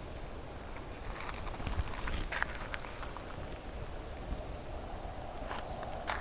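Quiet outdoor garden ambience with a short, high chirp repeated roughly once a second, and a few faint rustles and ticks.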